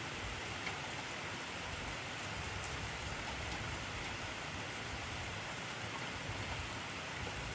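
Heavy rain falling steadily on a surface, a dense even hiss with scattered drop ticks.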